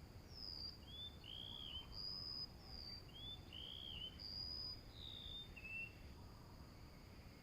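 Small birds giving short whistled calls: high, slurred notes alternating with lower arched notes, often in quick pairs, over a steady high-pitched insect drone.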